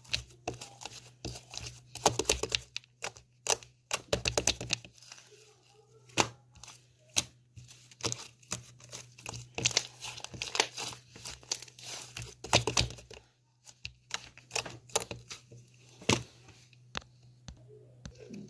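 Crinkling and tearing of a thin material being handled, in irregular bursts of sharp crackles with short pauses, over a steady low hum.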